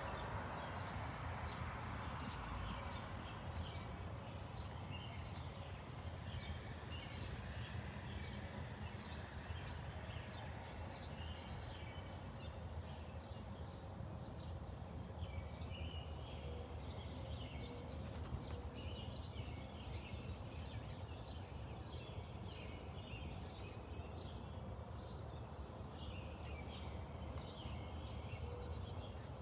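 Small songbirds chirping: many short, quick chirps in an irregular stream, busier in the second half, over a steady low background rumble.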